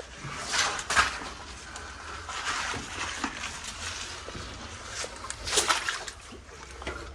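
Footsteps and scuffing of a person working through a muddy cave passage, with a few sharper knocks, the loudest about a second in and again past the five-second mark.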